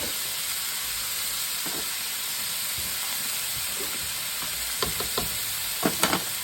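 Seasoned chicken pieces sizzling steadily as they fry in olive oil in a hot pan, with a few light clinks about five seconds in and again near the end.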